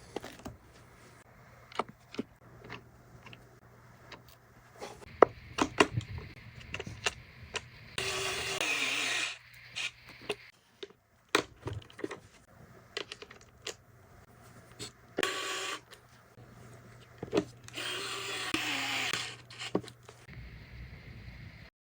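Packaging and parts being handled: scattered clicks and knocks, with three longer scraping noises of a second or two each.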